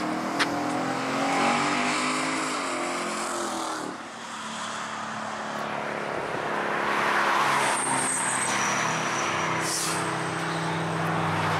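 Lexus IS F's 5.0-litre V8 on nitrous, accelerating hard past, its note climbing in pitch until it breaks off about four seconds in. A steadier engine sound carries on after that, with a sharp click near the start and a brief hiss about ten seconds in.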